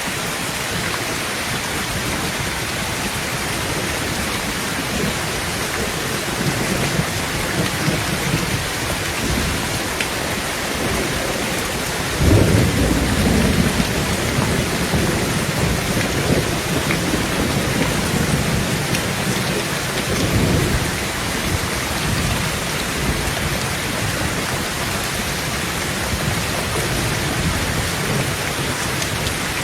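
Heavy rain falling steadily on a tin tent roof. About twelve seconds in, a sudden clap of thunder breaks into a deep rumble that rolls on for several seconds, swelling again near its end.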